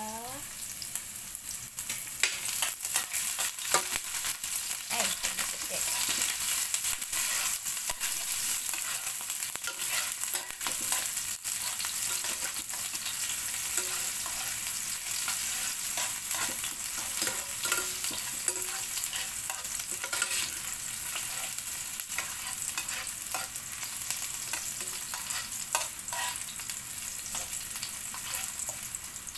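Chopped onion and garlic sautéing in hot oil in a nonstick pan: a steady sizzle, with frequent scrapes and taps as a spoon stirs them around the pan.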